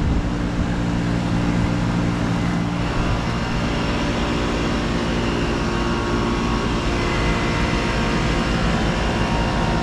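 2009 Arcoaire 7.5-ton commercial air conditioner condensing unit running steadily: the Copeland scroll compressor hums and the condenser fan blows. The hum's low tones shift slightly about three seconds in.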